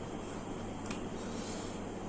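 Steady background hiss with a low hum, and one faint click about a second in.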